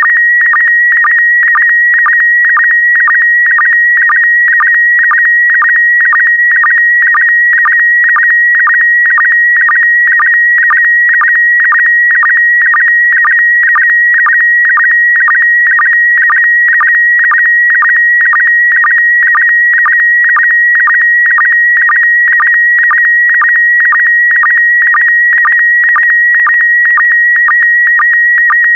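PD120 slow-scan television (SSTV) signal: a loud, steady high tone near 2 kHz warbling with the image data, broken by a regular sync pulse about twice a second as a picture is sent line by line.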